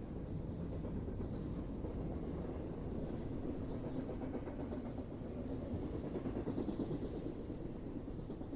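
Train rolling along the track, a steady low rumble with a few faint clicks about four seconds in.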